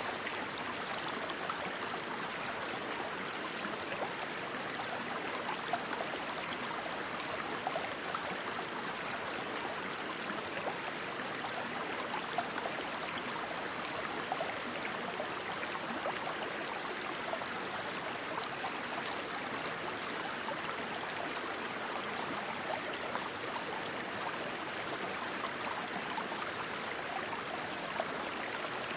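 Rushing stream water, a steady full noise. Over it come short, high-pitched chirps every second or so, often in twos and threes, with a brief rapid trill about 22 seconds in.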